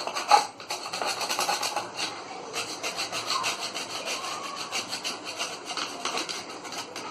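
Rapid hand rubbing and scraping strokes on a washing-machine part, several a second, with a sharp knock about half a second in.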